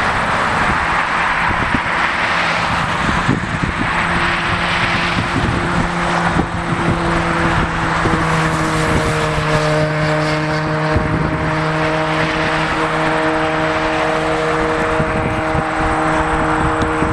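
Jet airliner engines running at taxi power: a steady rushing noise with several steady humming tones that come in about two seconds in, more joining midway.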